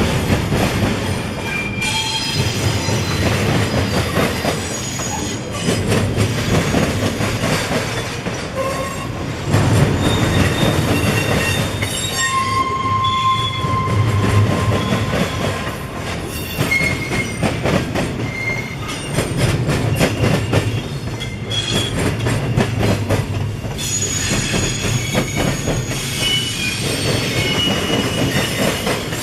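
Freight train rolling past: a steady rumble of wheels clacking over the rails, with short, high-pitched wheel squeals coming and going throughout.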